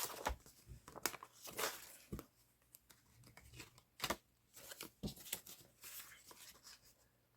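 Faint paper rustling with a few light taps, scattered at irregular intervals, as the paper pages, tags and inserts of a handmade junk journal are handled and turned.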